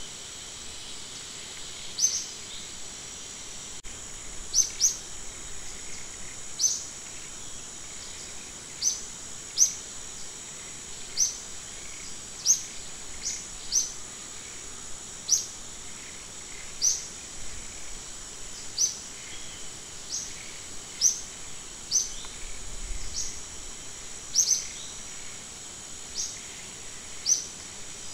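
A bird repeating a short, sharp, rising chirp every second or two, over a steady high-pitched insect drone.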